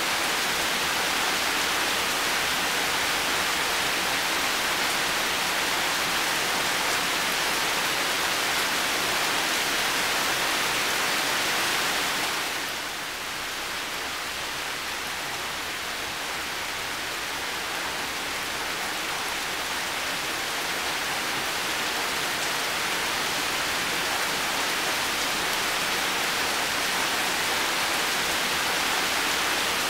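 Heavy rain falling in a steady, dense hiss. About twelve seconds in it softens a little and loses some brightness, then slowly builds back.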